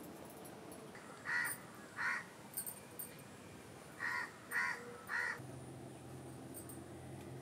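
A bird calling five short times: two calls, a pause, then three in quick succession.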